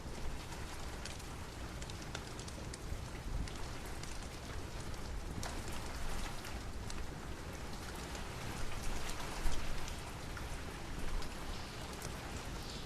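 Steady rain falling, with scattered sharp clicks through it and a few louder swells about nine seconds in.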